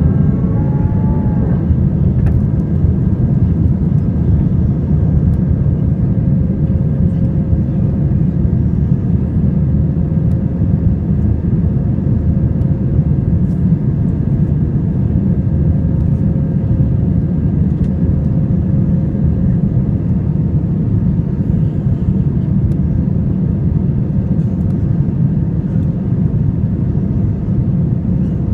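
Airbus A320 jet engines running under power, heard inside the passenger cabin as a steady low roar with a faint hum above it.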